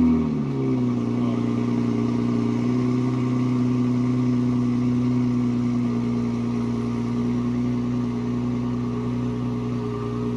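Toyota Supra's turbocharged inline-six just after starting, dropping from its start-up flare within the first second, then idling steadily and evenly.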